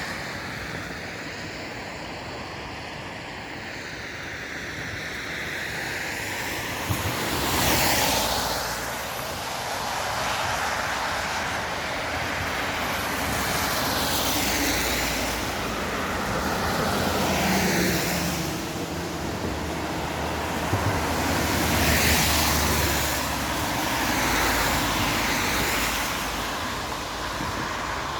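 Vehicles passing one after another on a wet road, each swelling and fading over a few seconds with a rushing tyre hiss.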